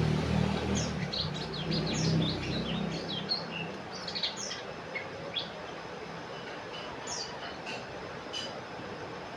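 Common iora (cipoh) calling in a string of short, quick chirps and twitters. A low rumble, like a passing engine, sits beneath them for the first three seconds and then fades out.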